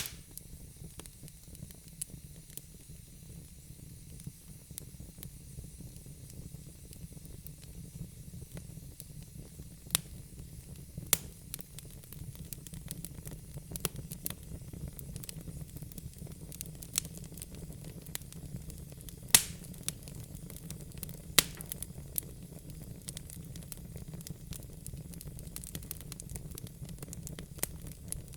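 Wood fire burning in a fireplace: a steady low rumble and hiss of the flames with scattered sharp crackles and pops from the logs, a few louder pops near the middle.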